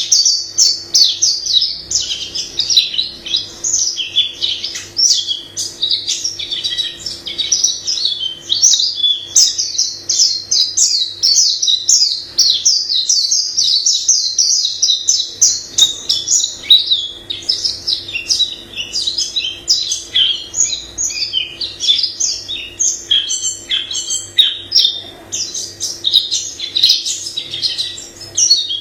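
White-eye singing a long, unbroken, varied song of rapid high-pitched twitters and trills.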